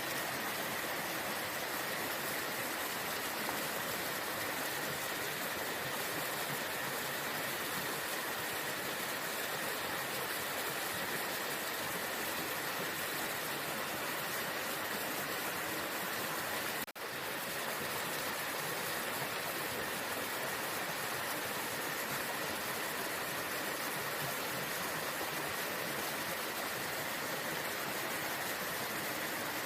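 Waterfall: water rushing in a steady, unbroken hiss, with a momentary dip in level about two-thirds of the way through.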